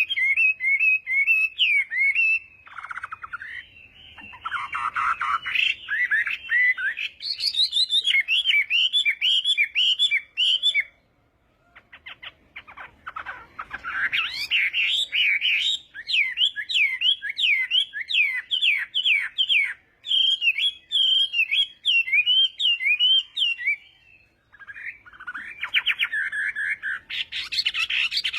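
Chinese hwamei singing a long, loud, rapid song of varied whistled phrases, broken by two short pauses.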